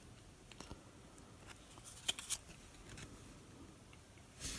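Trading cards being handled and flipped through by hand: scattered faint taps and small clicks, two sharper ones about two seconds in, and a short, slightly louder rustle near the end.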